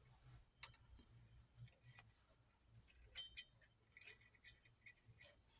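Faint scattered clicks and light rattles of small plastic and metal parts being handled: a film reel and an 8 mm film viewer being threaded. A faint low hum lies underneath.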